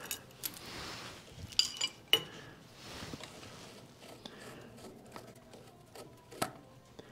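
Light metallic clinks and scraping as the loosened aluminium tail cap of a Maglite flashlight and the tools are handled, with a few sharp ringing clinks about two seconds in.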